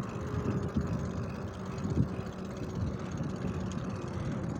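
Steady low rumble of wind and rolling noise while riding a bicycle, with small irregular knocks.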